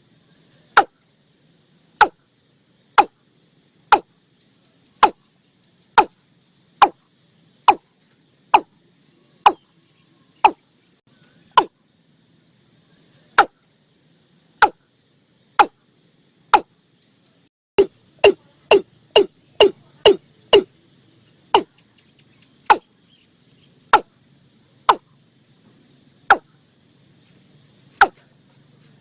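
A bird's call: sharp, falling notes repeated about once a second, breaking into a quick run of about four a second a little past the middle, then slowing again. A faint steady chirring of insects sits underneath.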